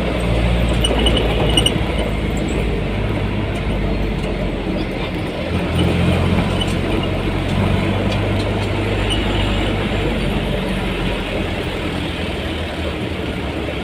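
Motor vehicle on the road: a steady, low engine hum with its pitch shifting slightly, over continuous road and traffic noise.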